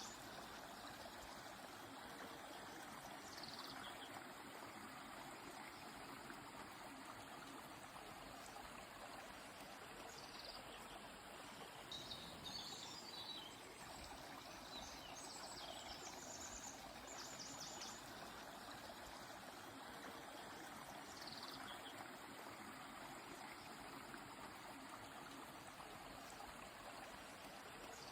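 Quiet, steady rush of a flowing river, with birds singing over it: short high descending whistles and quick repeated chirps every few seconds.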